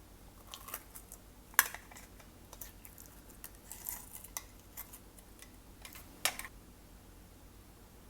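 Scattered sharp clicks and taps from slime being mixed and handled, with a loud click about a second and a half in and another near six seconds.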